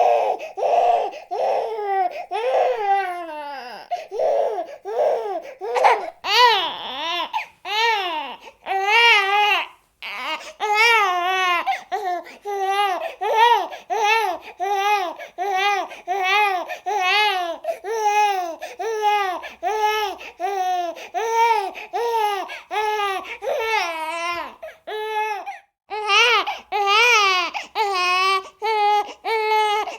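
Infant crying in a steady series of short, high-pitched wails, about one to two a second, with a few longer drawn-out cries partway through.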